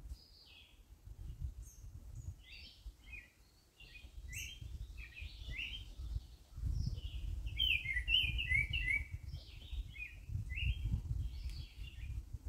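Small birds chirping in quick, short notes, busiest about two-thirds of the way through, over a low rumble.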